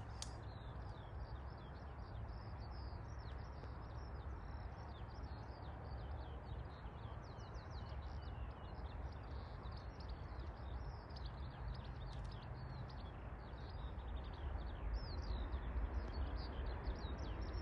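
Small birds chirping and singing almost constantly over a steady low rumble, which grows louder near the end.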